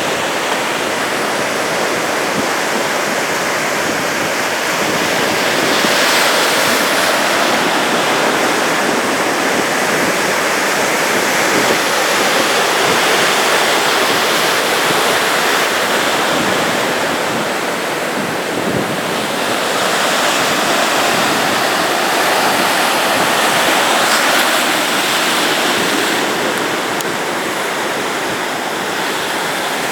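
Ocean surf breaking on a sandy beach: a continuous rush of waves that swells louder every several seconds as breakers come in.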